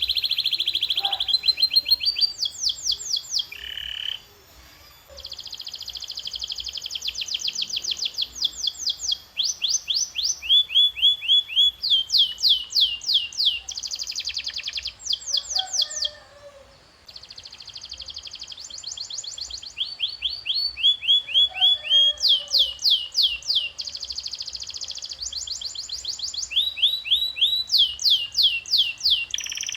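Domestic canary singing a long song made of tours: runs of rapidly repeated high notes, some fast buzzy rolls and some slower series of downward-sweeping whistles. It breaks off briefly about 4 seconds in and again about 16 seconds in.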